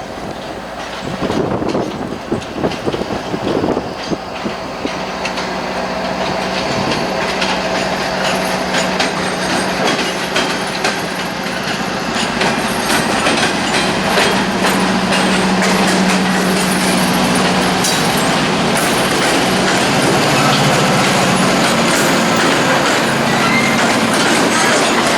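Norfolk Southern freight train rolling on the rails, its steel wheels clicking over the rail joints, over a steady low hum, growing gradually louder.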